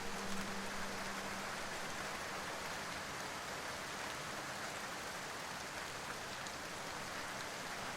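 Steady rain, an even hiss of falling rain with no breaks. A low held musical note fades out about a second and a half in.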